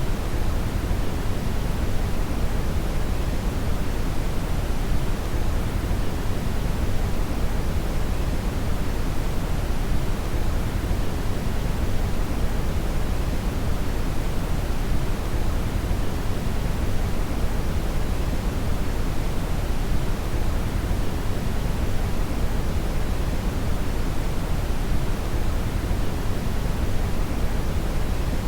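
Synthetic brown noise: a steady, deep hiss with most of its weight in the low end and little treble, unchanging throughout.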